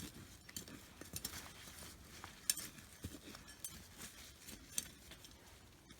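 Digging through soil to lift sweet potatoes: faint, irregular scraping and clicking of earth and small stones.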